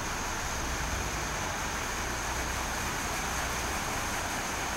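A truck driving through floodwater on a submerged road: a steady wash of water spray and tyre noise with a low engine rumble underneath.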